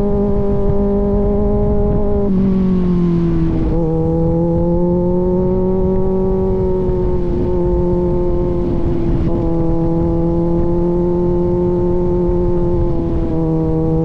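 Kawasaki Z900 inline-four with an aftermarket AR exhaust running steadily under way; the engine note dips slightly about two to four seconds in, then holds even, easing down a touch again near the end.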